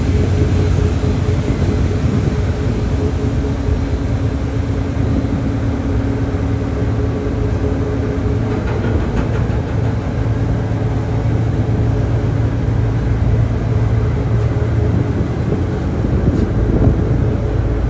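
Car ferry's engines running under way, a constant loud drone with steady humming tones.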